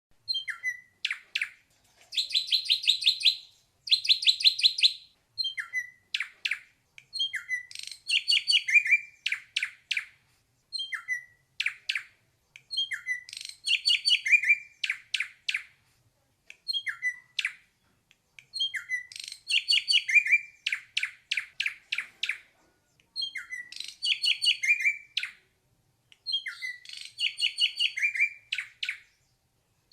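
Ashy drongo singing: short phrases of fast, high notes, each a second or so long, repeated with short pauses.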